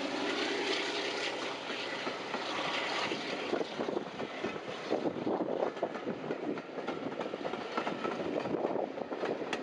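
Passenger coaches rolling past close by, their wheels knocking and clattering over the rail joints. At first the steady note of the Class 52 'Western' diesel-hydraulic locomotive heading the train is heard, and it fades away over the first few seconds.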